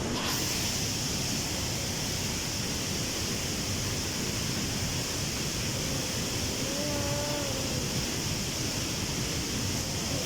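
Waterfall rushing in a steady, even roar. A short faint call, rising and then falling, comes about two-thirds of the way through.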